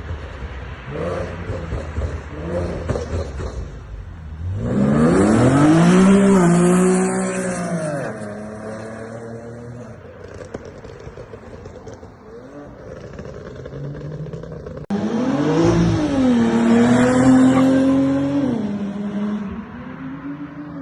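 Nissan Skyline V36's V6 through a custom exhaust: idling, then revved up twice, each time the note climbing, holding briefly and dropping back to idle.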